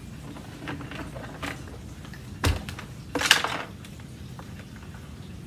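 Plastic upright vacuum cleaner being handled and tipped: scattered clicks, a heavier knock about two and a half seconds in, then a short clatter. The clatter is a loose, broken plastic handle-release piece and its screw rattling inside the housing.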